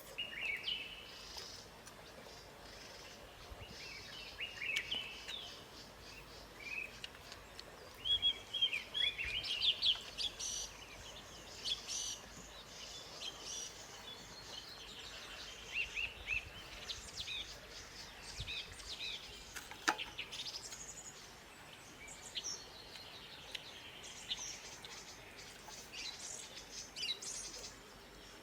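Wild birds chirping and calling in a forest: many short high chirps and quick trills, busiest about a third of the way in, over a faint steady background hiss. One sharp click about two-thirds of the way in.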